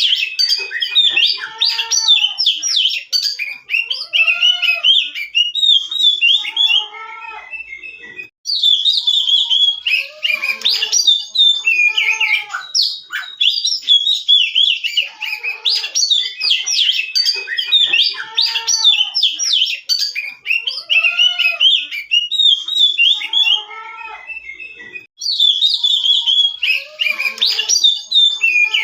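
Songbird chirping and twittering in rapid, dense phrases, with lower arched whistled notes beneath. It is a recorded bird-song track that loops, starting over about every seventeen seconds.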